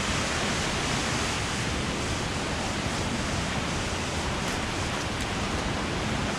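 Steady rushing of falling water from a waterfall or mountain stream, an even hiss with no breaks.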